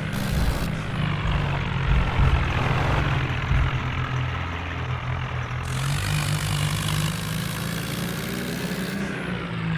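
Tractor engine running steadily, with a hiss in the upper range that gets stronger about six seconds in.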